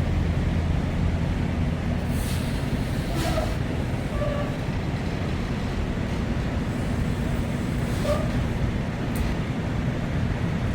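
Steady low drone of a truck's engine and road noise heard inside the cab, with a few faint brief clicks.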